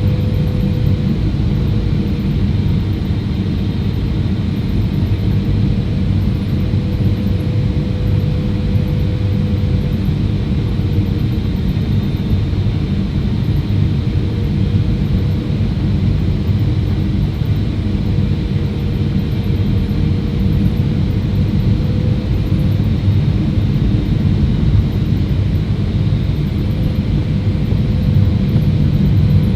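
Boeing 777-300ER airliner noise: a steady, loud rumble with a constant mid-pitched hum running through it.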